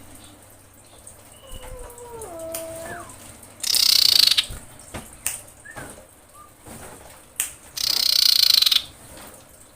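Common iora (cipoh) female lure call: two loud, harsh screeching calls, each under a second, about four seconds apart. Between them come a soft, falling two-note whistle and a few short sharp ticks.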